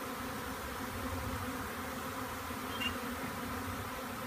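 Swarm of honey bees buzzing: a steady, even hum of many bees.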